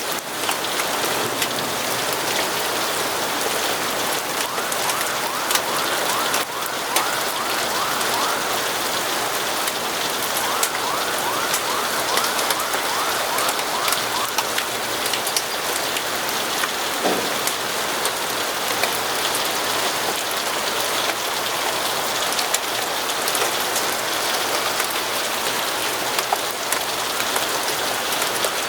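Steady rain falling, with scattered sharp ticks and pops throughout.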